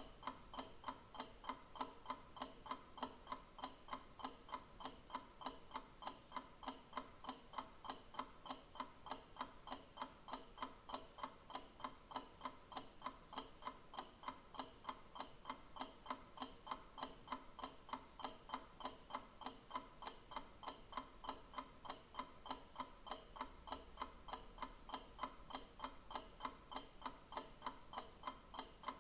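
Mechanical clock ticking in a steady, even tick-tock.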